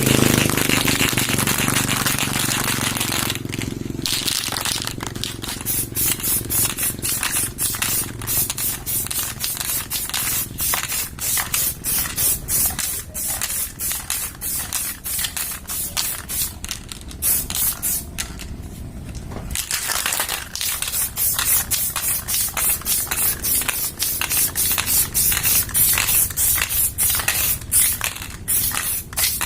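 Aerosol can of heat-resistant flat black spray paint spraying, first in one continuous hiss and then in many short quick bursts, with a brief pause about two-thirds of the way through.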